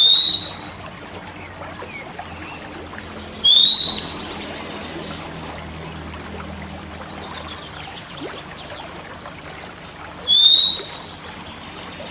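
Oriental magpie-robin giving three loud, short rising whistles, a few seconds apart, over a steady trickle of running water.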